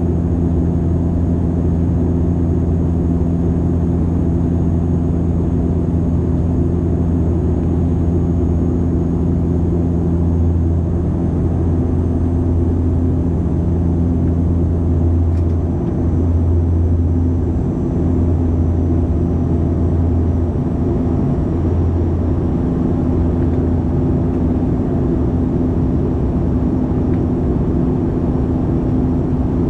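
Steady low engine drone of a vehicle, an even hum with a few overtones at a constant level.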